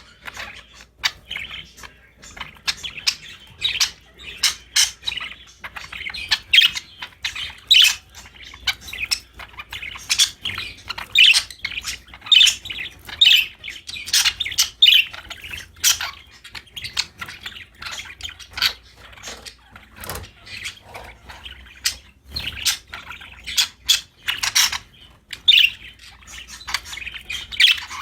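Budgerigars chirping and chattering: a rapid, busy run of short high chirps and warbles with no pause.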